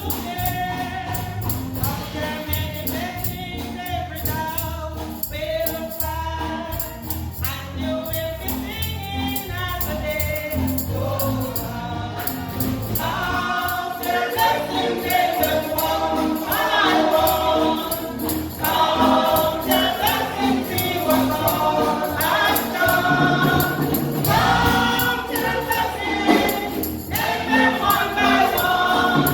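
Gospel singing by a choir or congregation, with a tambourine shaken in a steady beat and a bass line beneath. It grows louder about halfway through.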